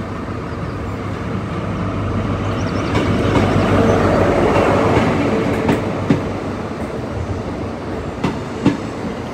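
ScotRail HST (InterCity 125) pulling into the platform. The Class 43 diesel power car's engine hum swells to its loudest about four seconds in as it passes, then the coaches roll by with a few sharp wheel clicks.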